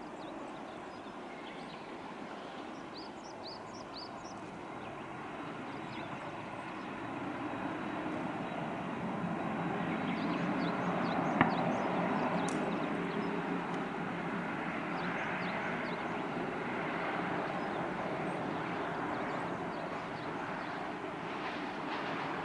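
Boeing 767 jet engines running as a steady noise that swells over several seconds, peaks a little before halfway, then holds. Small bird chirps are heard faintly, with one sharp click near the middle.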